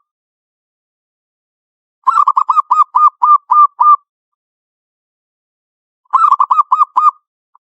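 Zebra dove (local perkutut) cooing: a quick run of short, evenly spaced coos about two seconds in, lasting about two seconds, then a second, shorter run near the end.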